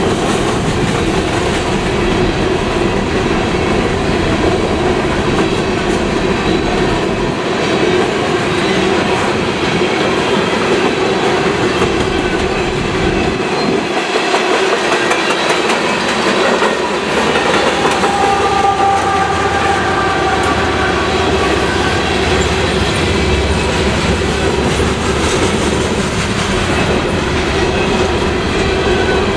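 Freight train cars rolling past on the rails with a steady rumble and clickety-clack of wheels over the track. Thin steady squealing tones from the wheels join in about two-thirds of the way through.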